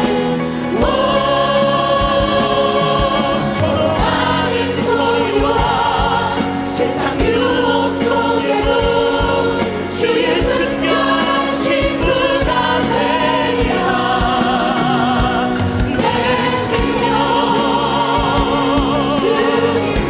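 Choir and congregation singing a Korean hymn with vibrato, over accompaniment with a steady beat.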